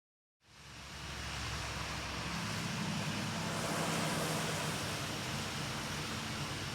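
An engine running steadily under a broad rushing noise, starting abruptly about half a second in.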